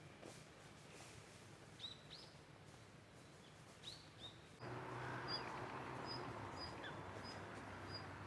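Wild birds calling in woodland: short, quickly bending chirps, several in pairs. From about halfway, a short high note repeats about twice a second over a louder background hiss.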